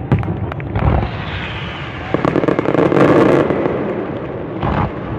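Fireworks display: a dense run of bangs and crackling, heaviest from about two to three and a half seconds in.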